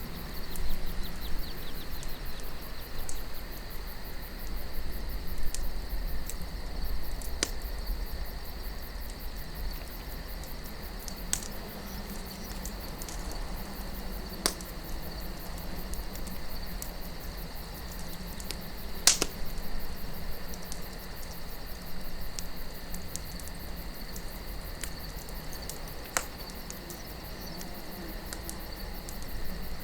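Campfire of burning wood crackling, with scattered sharp pops at irregular intervals, over a low steady wind and a constant high chirring of crickets.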